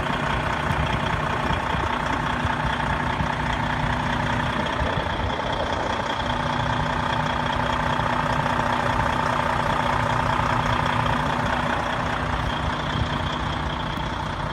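A vehicle engine running steadily with a constant hum and rumble. One of its tones drops out for a second or two about five seconds in.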